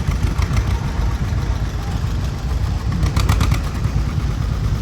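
Vintage farm tractor engine running at low speed with a steady, rapid low pulsing, and a brief clatter of clicks about three seconds in.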